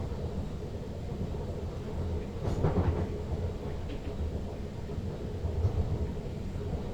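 Electric Sprinter Lighttrain (SLT) multiple unit running on the track, heard from the driver's cab: a steady low rumble, with a louder clatter about two and a half seconds in and a smaller one a few seconds later.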